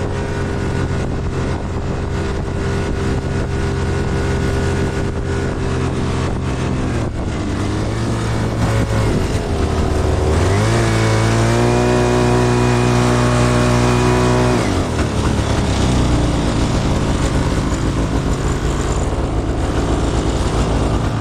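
Snowmobile engine running steadily, then revving up about ten seconds in, holding the higher revs for about four seconds and dropping back.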